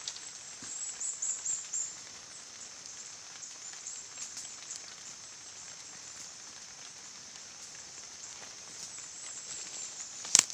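Outdoor ambience with a steady high-pitched hiss, with brief high chirping flickers in the first two seconds and two sharp clicks or knocks near the end.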